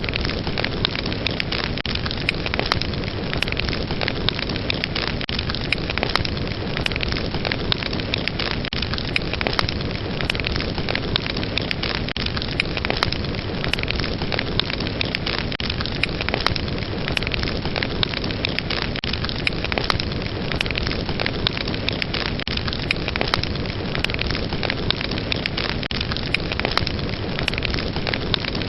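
Fire burning steadily with a dense hiss and frequent small crackles and pops.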